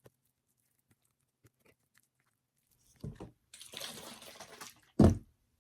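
Lemon juice splashing out of an uncapped bottle for about a second, between a thud and a louder, sharper thud near the end.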